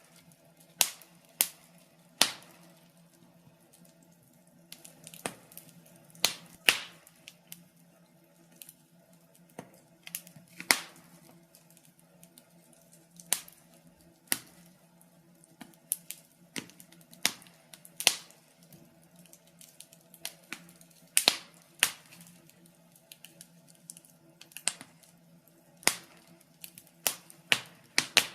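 Wood fire in an open fireplace crackling, with sharp pops and snaps at irregular intervals, a loud one every second or two.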